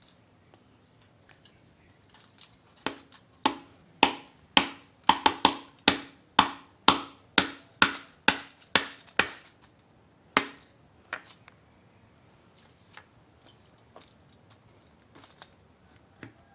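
Plastic drinking straw dabbed again and again onto canvas paper on a table to stamp flower shapes in acrylic paint: about sixteen sharp taps, roughly two a second, starting about three seconds in and stopping near the ten-second mark.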